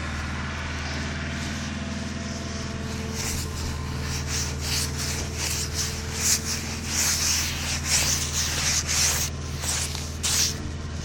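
Car engine idling steadily, with a run of short, irregular scraping sounds, about two a second, from about three seconds in.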